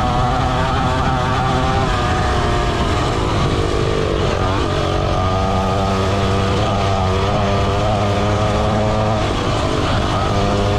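Pit bike engine running under throttle, its pitch dipping and climbing again about four seconds in and shifting once more near the end as the throttle changes.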